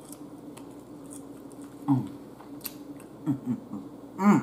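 A person chewing an air-fried chicken wing up close, with small wet mouth clicks, broken by short closed-mouth "mm" sounds that fall in pitch: one about two seconds in, two more soon after, and the loudest near the end. A steady low hum runs underneath.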